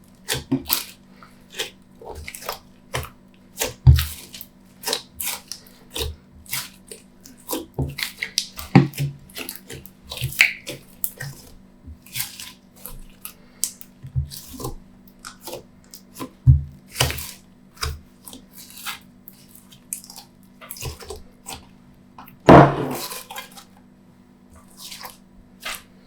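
Glossy slime being squished and stretched by hand, giving irregular wet clicks and pops, with one longer, louder squelch near the end.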